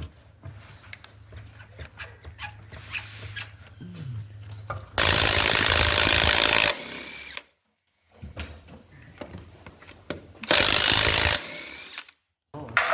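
A handheld power tool runs in two bursts: one of nearly two seconds about five seconds in, and a shorter one near eleven seconds, each trailing off as it winds down. Faint clicks of tool work come between.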